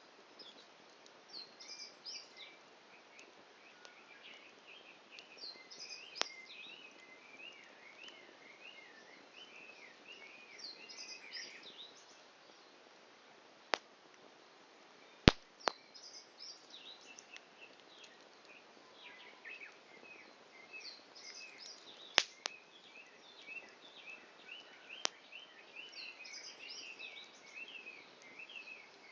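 Wood campfire popping with a handful of sharp cracks, the loudest a little past halfway, over a faint steady hiss. A small bird chirps in long runs of quick high notes through most of it.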